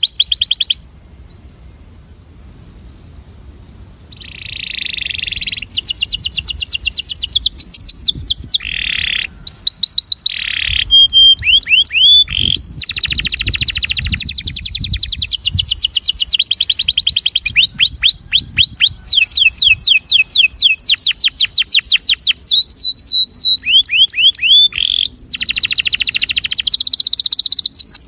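Male domestic canary singing: phrases of fast, rapidly repeated trill notes, one after another with short breaks. There is a quieter pause of about three seconds near the start.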